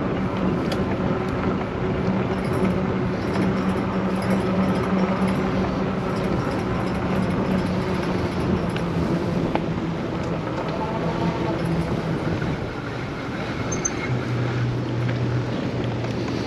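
Kreboc ES750 electric bike riding along: a steady low hum with tyre and wind noise, the hum dropping to a lower pitch about two seconds before the end.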